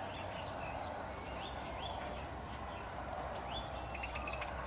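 Budgerigars chirping: short rising chirps every second or so over a steady background hiss.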